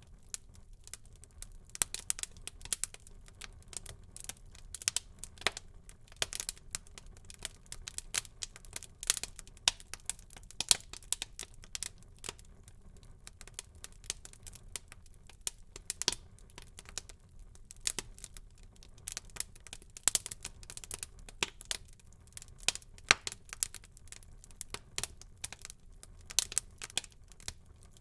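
Wood fire burning in a fireplace, crackling with irregular sharp pops, several a second, over a low steady rumble.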